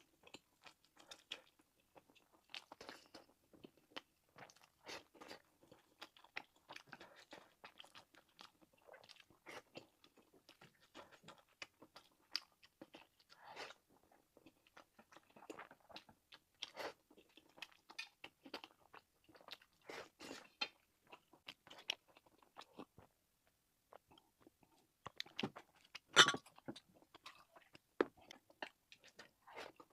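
A person chewing and biting into fried rice and sausage, with a steady run of small wet crunches and clicks. One louder crunch comes a few seconds before the end.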